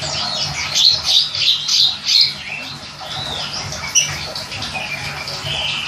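A small songbird singing rapid, squeaky chirps and short trilled notes, dense in the first two seconds, then sparser with a sharp single note about four seconds in, over a steady background of running water.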